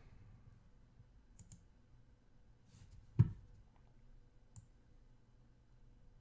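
A few faint, scattered clicks in a small room, with one louder knock about three seconds in.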